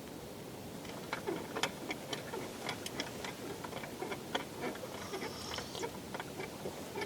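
Irregular sharp clicks and ticks, several a second, beginning about a second in over a steady low hiss.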